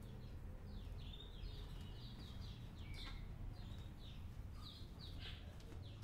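Small birds chirping faintly: a rapid, irregular string of short high chirps, each sliding downward, over a low steady hum.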